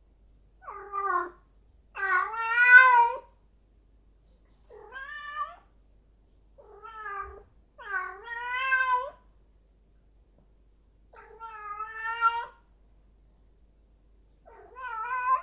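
Domestic cat meowing repeatedly: seven separate meows of up to about a second and a half each, with short pauses between, the second one the loudest.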